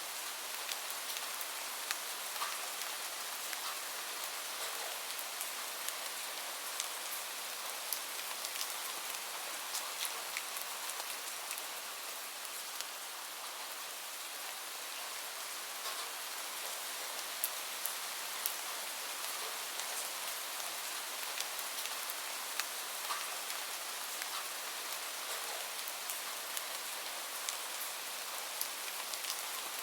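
Steady rainfall: an even hiss with scattered sharp ticks of individual drops throughout.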